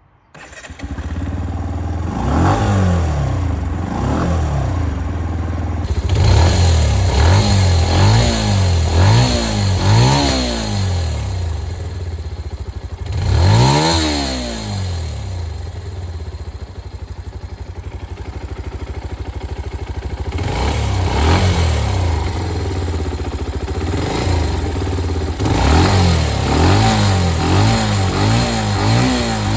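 Benelli BN 125 motorcycle's 125cc oil-cooled single-cylinder engine idling and being revved in short throttle blips again and again, with one bigger rev about halfway through and a steadier idle for a few seconds after it.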